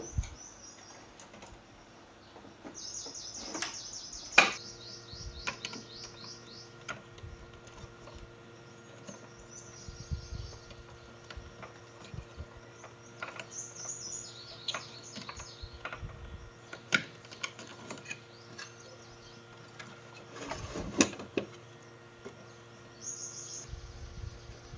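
Birds chirping in short high trills several times, over scattered clicks and taps. A steady low hum sets in after a loud click about four seconds in.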